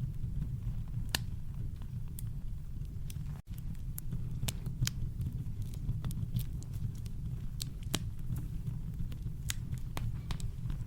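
Campfire crackling: irregular sharp pops and snaps of burning wood over a steady, deep brown-noise rumble, with a very brief dropout about three and a half seconds in.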